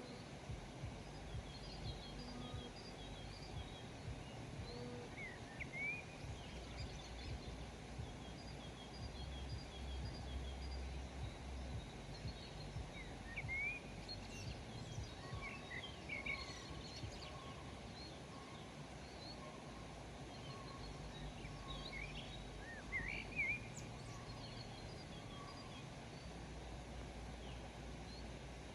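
Songbirds chirping and calling on and off in the open countryside: short quick notes and brief slurred whistles, over a steady background hiss and a low rumble that comes and goes.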